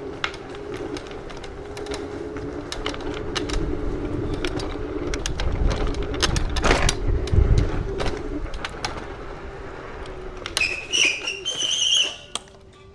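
Rental electric scooter running fast, its motor whining at a steady pitch over road rattle and rumble that swells about seven seconds in; the whine fades out about eight seconds in. Two short high-pitched squeals follow near the end.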